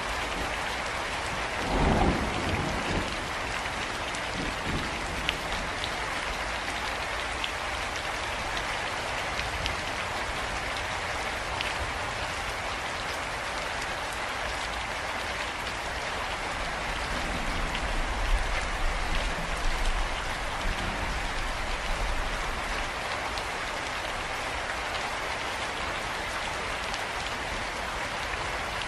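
Steady rain falling, with low rumbles of thunder: a short one about two seconds in and a longer one just past the middle.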